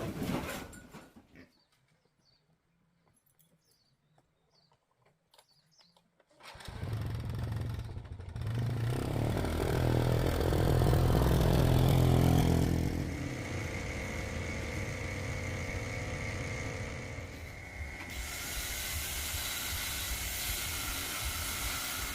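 A motor vehicle's engine starts about six and a half seconds in, gets louder for a few seconds, then runs steadily with a thin high whine over it.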